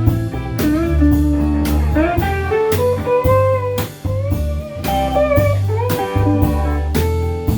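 Live band playing a song's instrumental introduction: a guitar plays a melody with sliding, bending notes over bass and drums keeping a steady beat.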